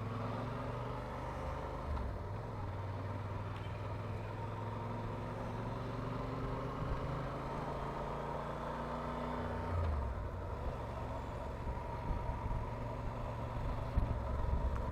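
Motorcycle engine running steadily while riding through town traffic, its note changing about ten seconds in.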